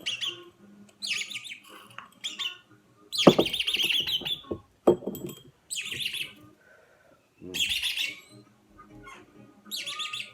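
Red-rumped parrots chirping and warbling, in bursts of about a second every couple of seconds, with the longest burst a few seconds in.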